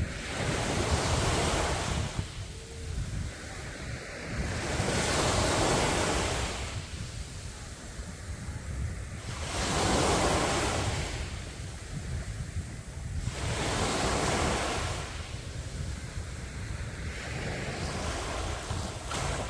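Sea waves breaking on a sandy beach, one swelling rush about every four to five seconds that washes out and fades, five in all. A steady low wind rumble on the microphone runs underneath.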